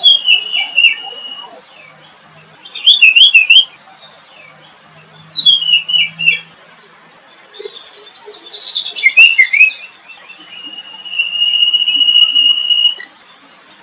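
Songbirds singing in separate short phrases with pauses between them: quick zigzag and falling high notes, a fast trill just past the middle, and one long steady high whistle near the end.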